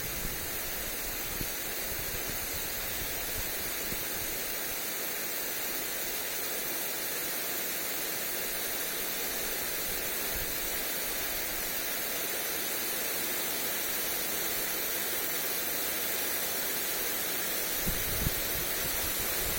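Lawn sprinkler spraying water onto grass, a steady hiss of spray. Near the end, wind buffets the microphone with a few low rumbles.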